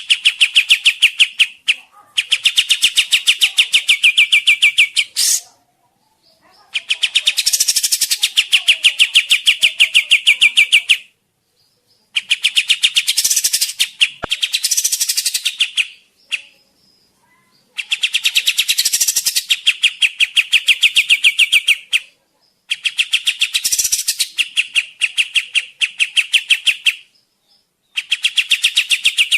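Kapas tembak bird song used as a trapping lure call: loud phrases of three to four seconds, each a rapid rattling string of about ten sharp notes a second, with a short pause between phrases.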